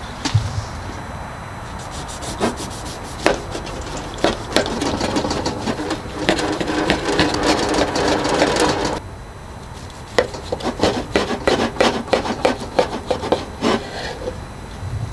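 Rubbing and scraping with scattered knocks, then a quick run of sharp clicks and knocks for a few seconds after the scraping stops.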